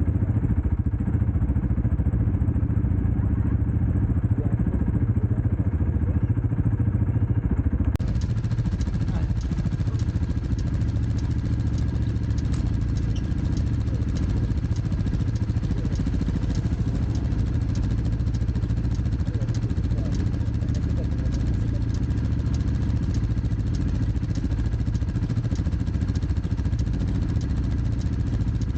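Dirt bike engine running steadily while riding. About eight seconds in the sound changes abruptly, and a regular light ticking, a couple of ticks a second, runs over the engine after that.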